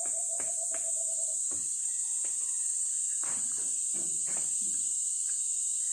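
A steady high-pitched hiss, with a few faint clicks and faint background sounds under it.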